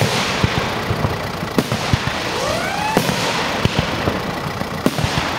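Aerial fireworks display: sharp bangs of shells bursting every second or two over a continuous crackling hiss. A little past the middle, a whistle rises in pitch.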